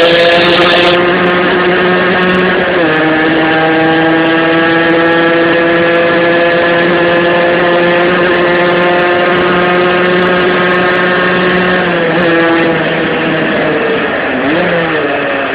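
Tuned 50cc two-stroke engine of a Rieju RS2 Matrix (Top Perf cast-iron kit, 21 mm Dell'Orto carburettor, homemade exhaust with a Conti silencer) running high in the revs under way. Its high note holds steady, dips and climbs back twice, about 3 s in and about 12 s in, then falls and rises again near the end.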